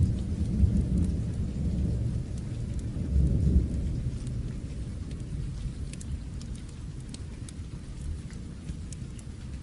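A low rolling thunder rumble over steady rain, loudest in the first four seconds and then dying away. Small sharp ticks are scattered through it.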